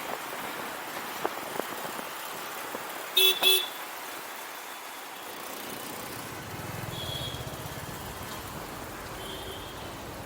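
Wind and road noise while riding a motorcycle through city traffic. About three seconds in, a vehicle horn toots twice in quick succession, the loudest sound; from about six seconds in a low engine rumble swells, with faint horns further off.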